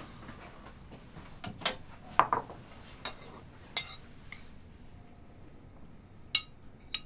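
Dishes and utensils clinking: a few scattered sharp clinks and knocks, several in the first four seconds and two more near the end.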